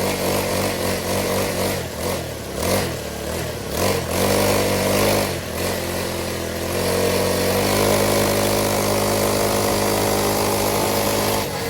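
Motorcycle engine running under way, its pitch rising and falling several times with the throttle in the first half, then holding a steady pitch until it drops away right at the end.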